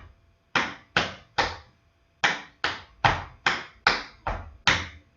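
Tap shoes striking a hard floor in a run of about ten sharp taps: a group of three, a short pause, then seven in an even rhythm of about two and a half a second.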